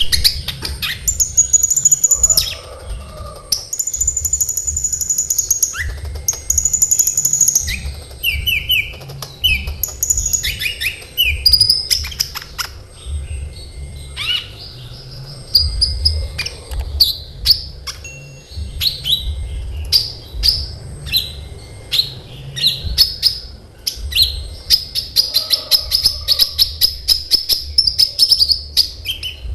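Sunbird ('kolibri ninja') singing in long, dense runs of rapid, high-pitched trills broken by sharp chirps, over a low steady rumble.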